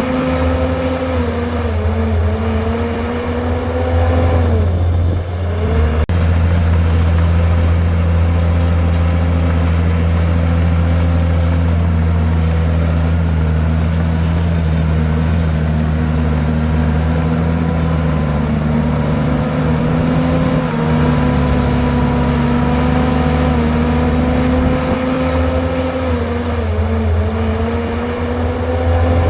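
Komatsu bulldozer's diesel engine running loudly and steadily while it pushes rocks and soil. Its pitch dips briefly a few times: once about five seconds in, and again near the end.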